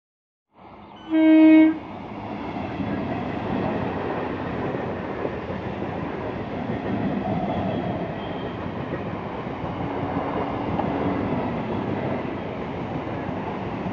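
Electric multiple unit local train sounding one short horn blast about a second in, then its coaches running past steadily on the track. The sound cuts in abruptly after half a second of silence.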